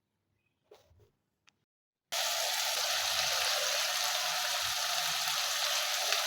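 Near silence with a couple of faint clicks, then about two seconds in a steady sizzle starts abruptly: chicken frying in oil and spice masala in a pot.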